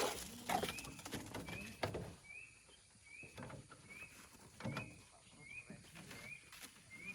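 A short, high chirp or squeak that rises and then levels off, repeating steadily about once every three-quarters of a second, over scattered knocks and scrapes that are loudest in the first two seconds.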